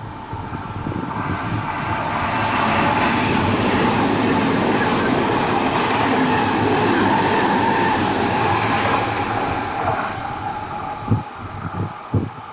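Odakyu 50000 series VSE Romancecar, an articulated electric limited-express train, passing through a station without stopping: the rail noise builds over about two seconds, holds loud, then fades, with a few thumps near the end.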